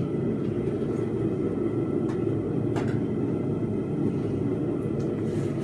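A forge running with a steady roar, with a couple of faint ticks about two and three seconds in.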